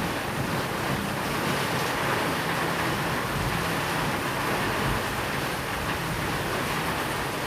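Steady rain falling, a continuous even hiss with no distinct drops or pauses.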